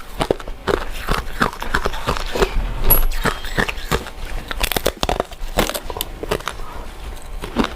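Chewing of soft, sticky glutinous rice cakes: a loud, dense run of irregular clicking and smacking mouth sounds.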